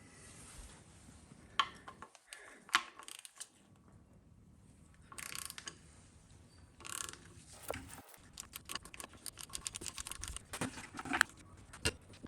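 Ratchet wrench working a socket on the engine block's coolant drain plug: a few separate clicks at first, then rapid ratcheting from about eight seconds in.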